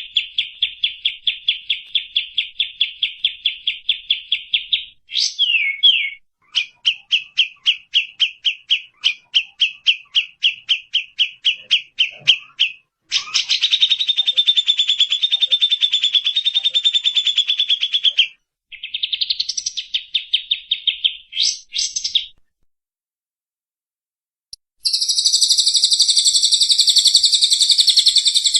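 Recorded bird song from a masteran mix of tengkek buto, cililin and kapas tembak calls. Rapid trains of sharp chirps repeat about eight to ten times a second, then a long dense trill, brief pauses, and a high buzzing rattle near the end.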